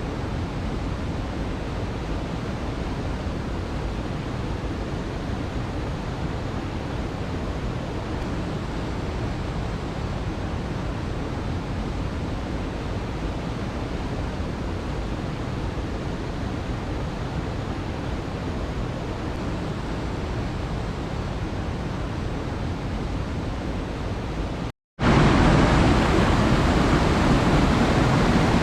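Steady rushing roar of a waterfall. It cuts out briefly near the end and comes back louder.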